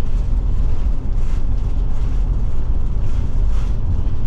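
Forest River Forester motorhome driving on the highway: a steady low road-and-engine rumble, with two faint swells of hiss about a second in and near the end.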